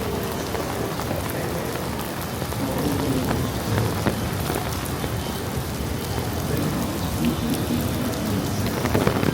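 Steady rain falling during a thunderstorm, an even hiss of drops.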